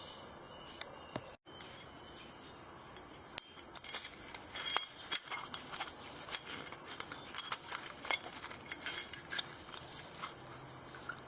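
Many light metallic clicks and clinks, irregularly spaced, from small metal parts and tools being handled. Insects chirp in the first second or so.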